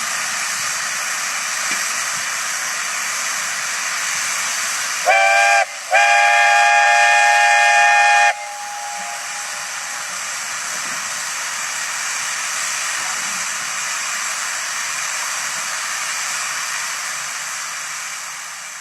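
Steam whistle blowing twice, a short blast then a longer one of about two seconds, over a steady hiss.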